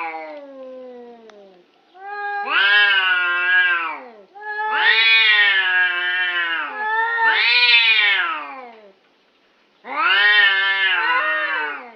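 A cat yowling: a short call fading out at the start, then four long drawn-out yowls of about two seconds each that bend up and down in pitch.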